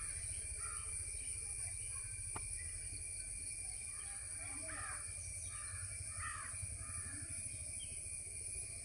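Short harsh bird calls, repeated about once or twice a second, over a steady low background rumble.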